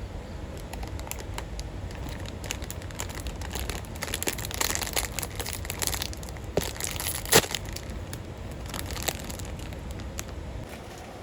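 Dense, irregular crinkling and crackling, busiest in the middle, with one sharp snap about seven seconds in, over a steady low background rumble.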